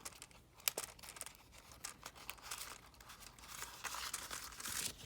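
Paper envelope being handled and folded open: soft rustling and crinkling of paper with a few light ticks, growing louder near the end.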